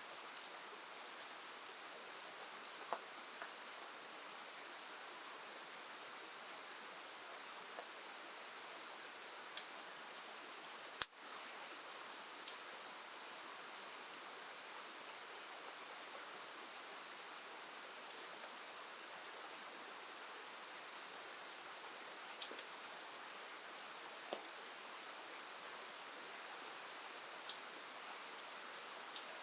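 Steady hiss of rain and river water, with scattered sharp ticks and pops here and there, and a brief click and dropout about eleven seconds in.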